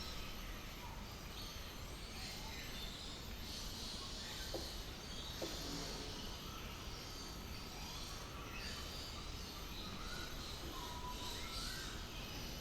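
Ambient bird park sound: scattered short bird calls and chirps over a steady low background noise.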